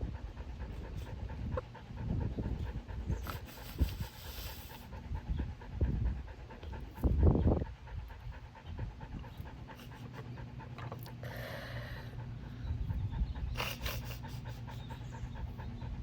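A dog panting steadily, with a few short, louder noises in between.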